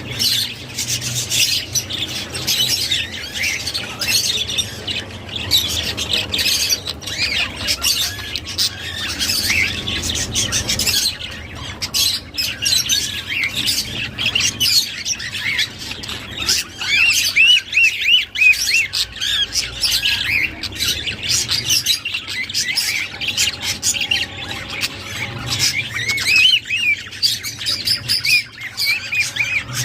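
A flock of budgerigars chattering and warbling together: a continuous mix of rapid chirps, short squawks and quick rising and falling whistles from many birds at once.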